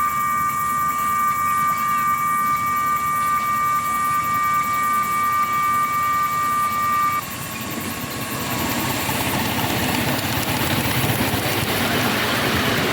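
Miniature locomotive running, with a beat about twice a second and a steady high note of several tones that stops about seven seconds in; after that a rougher rushing noise builds up.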